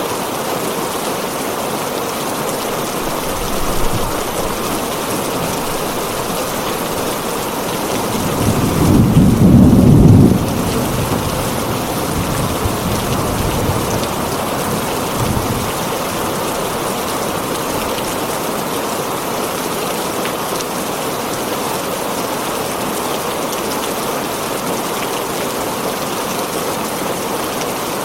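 Heavy rain drumming steadily on a tin roof, with a peal of thunder that swells about eight seconds in and is loudest around ten seconds, and fainter rumbles near four and fifteen seconds.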